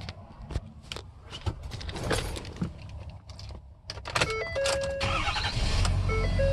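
Clicks and key rattles, then an in-cab warning chime of stepping tones about four seconds in. About a second later the 2014 Ford F-250's 6.7-litre Power Stroke V8 diesel starts and runs with a steady low rumble.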